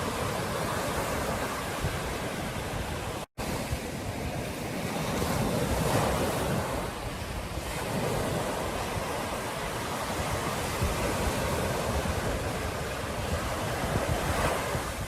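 Ocean surf washing onto a beach, a steady rush of waves that swells about five to seven seconds in, with wind on the microphone. The audio drops out completely for a split second a little over three seconds in.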